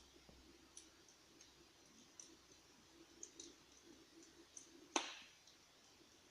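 Electric flame-effect fireplace crackling: faint, irregular crackles and pops, with one louder pop about five seconds in, over a faint low hum.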